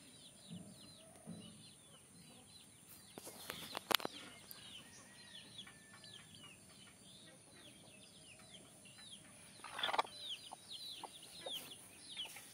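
Small birds chirping: many short, high chirps that fall in pitch, repeated rapidly and without a break, with a few sharp knocks and rustles about three to four seconds in and again around ten seconds.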